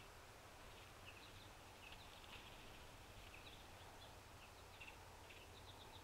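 Faint, short high chip notes from small birds, scattered irregularly throughout, over a steady low background rumble.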